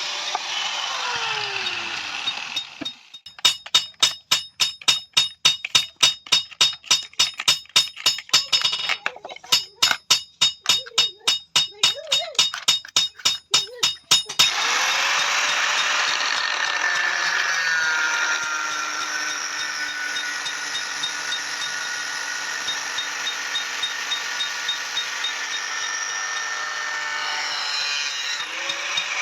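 A hand hammer beating hot metal on an anvil in a fast, even rhythm, about three to four ringing blows a second, with a short pause partway through. The blows stop suddenly, and a steady noisy hiss carries on after them.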